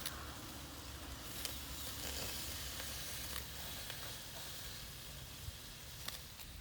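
Hard clams sizzling on a small charcoal grill over binchotan, a steady hiss with a few sharp pops.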